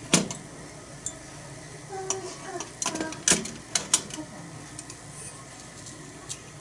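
Metal utensil clinking against a thick iron griddle: a handful of sharp, separate clinks in the first four seconds, over a faint steady hiss.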